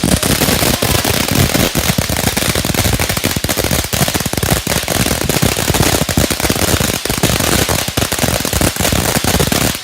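A string of firecrackers going off in a dense, rapid, unbroken run of loud cracks and bangs, many per second.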